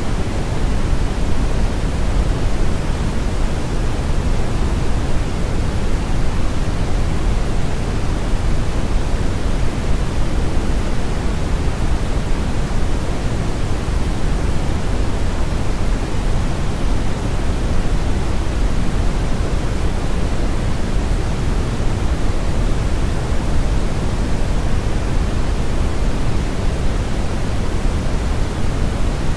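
Brown noise: a steady, unbroken hiss-like rush weighted heavily toward the low end, deep and rumbling with the highs rolled off.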